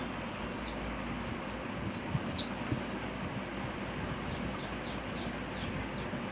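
Birds calling while squabbling over food: one loud, sharp, high call about two seconds in, then a quick run of about six short, high, falling chirps, over steady background noise.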